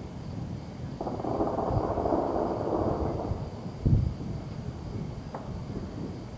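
Distant fireworks booming and rumbling, with one sharp, loud boom about four seconds in. A hiss runs from about one second to three seconds in.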